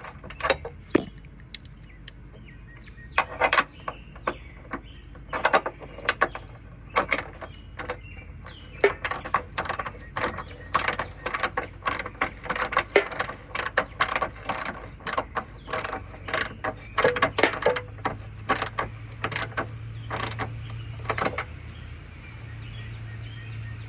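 Hand socket ratchet clicking in quick runs, with scattered metal clinks, as the bolts on a side-step mounting bracket are snugged up lightly.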